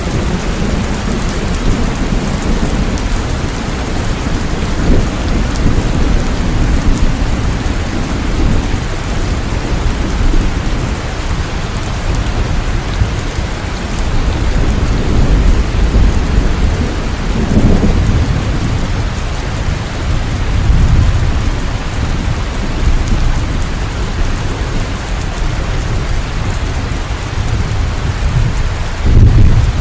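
Steady heavy rain with low thunder rumbling underneath, swelling and fading several times, loudest just before the end.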